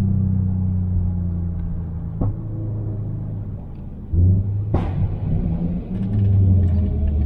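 Tuned Subaru WRX STi's turbocharged 2.5-litre EJ257 boxer engine, with a muffler delete, heard onboard. It runs steadily, gives a sharp crack about two seconds in and drops quieter off throttle, then comes back on load about four seconds in with another loud crack just before five seconds. The cracks fit the car's tuned pops and bangs.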